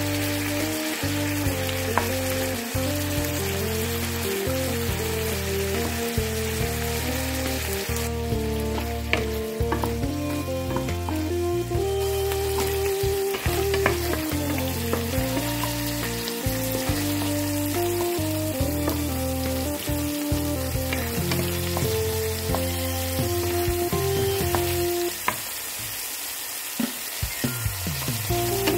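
Chicken breast pieces sizzling in hot fat in a nonstick frying pan, with a wooden spatula scraping and tapping as it stirs and pushes them aside, then sliced garlic cloves frying beside them.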